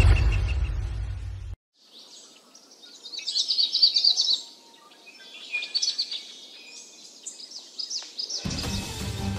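Wild birds chirping and trilling in quick runs, in two bouts, the first the louder. A low rumble at the start cuts off after about a second and a half, and music comes in near the end.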